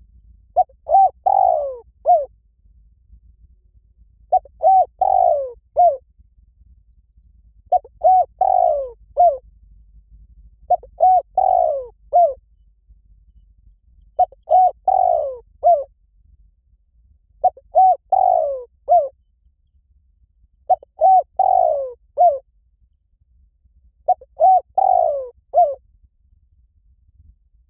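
Spotted dove cooing: eight short phrases of several notes each, repeated evenly about once every three and a half seconds.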